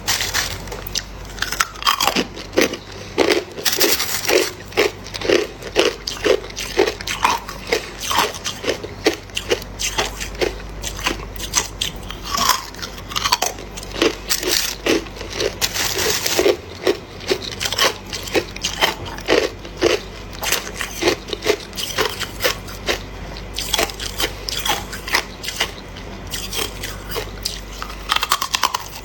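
Close-miked crunching of hard ice being bitten and chewed, a rapid irregular run of sharp crunches, several a second, over a low steady hum.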